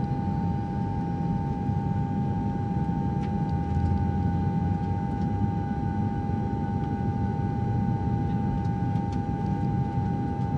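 A steady mechanical hum: a constant whine over a low rumble that does not change in pitch or level.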